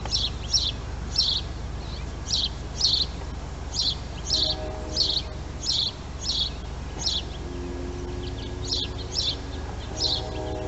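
A small bird chirping over and over, short high chirps about twice a second, over a steady low background rumble.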